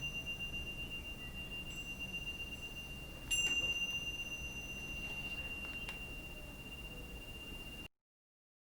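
A small metal chime ringing with one clear, high, sustained tone, struck again about three seconds in; the ringing cuts off suddenly near the end.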